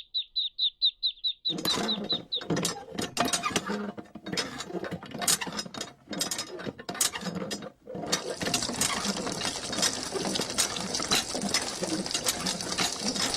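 A small geared electric motor, like those driving a miniature DIY bulldozer or tractor model, whirring and clattering with rapid clicks, steadier from about eight seconds in. A rapid high chirp repeats about eight times a second over the first two seconds or so.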